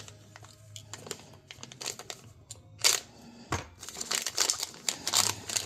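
Plastic packaging crinkling and tearing as it is opened by hand, in irregular rustles that grow busier in the second half.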